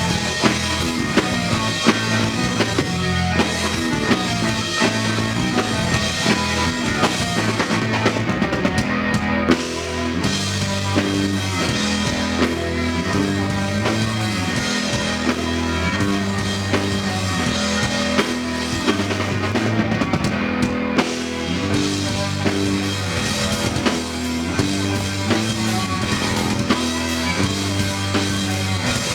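Live rock band playing a song: a drum kit keeps a steady beat under a bass line and guitar.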